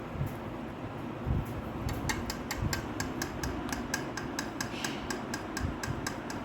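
A quick, even run of light, sharp clicks or taps, about four to five a second, starting about two seconds in.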